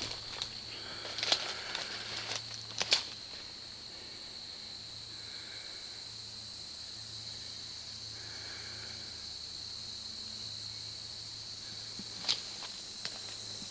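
Steady high-pitched insect chorus. Over it, crunching footsteps and crackling of dry, dead weeds come in the first three seconds and once more near the end.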